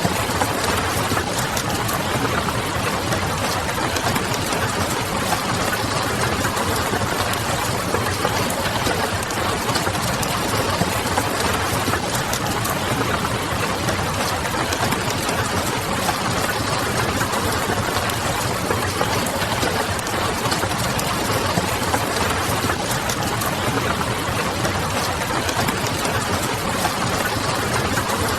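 Steady rain pattering blended with the crackle of a wood fire: an even, unbroken hiss scattered with small sharp pops.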